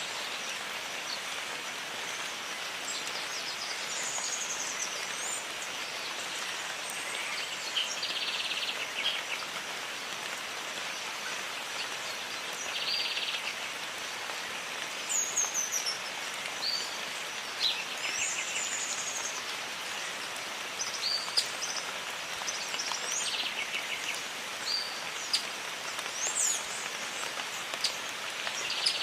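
Jungle ambience: a steady hiss of rain with birds calling over it, scattered whistled and sliding calls and a few short buzzy trills.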